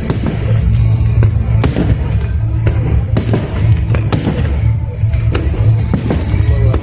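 Fireworks bursting in a run of sharp bangs, roughly one a second, with music playing alongside the show and a heavy steady low rumble underneath.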